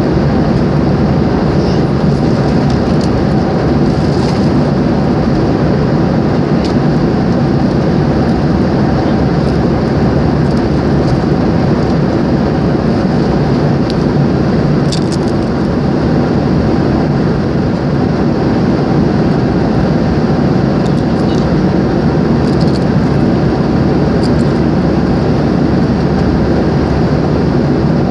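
Steady, unchanging engine and air noise inside an airliner's passenger cabin.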